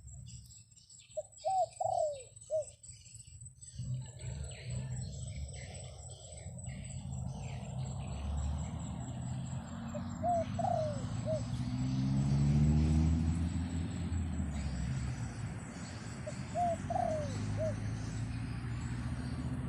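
Wild dove cooing: three short phrases of a few quick notes each, over a low rumble of wind on the microphone.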